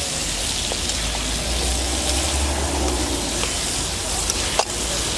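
Potato chunks sizzling as they fry in spiced oil in a metal pan, stirred with a metal spatula: a steady hiss with a few sharp clicks.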